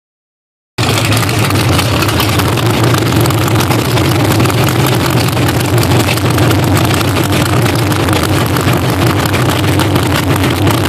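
Race car engines running loudly and steadily, with a deep hum and a crackling edge; the sound cuts in abruptly under a second in and holds without revving up or down.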